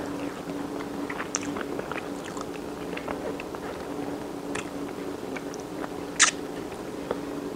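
A person chewing a mouthful of soft corn fufu with stewed spinach, with small wet mouth clicks and one sharper click about six seconds in, over a steady low hum.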